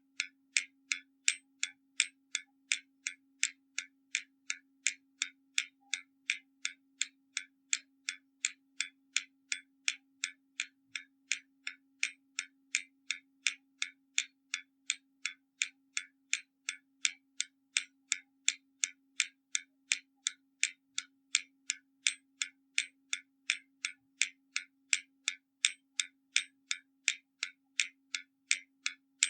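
Hermle mechanical skeleton clock ticking: its escapement gives sharp, even ticks at about two and a half a second.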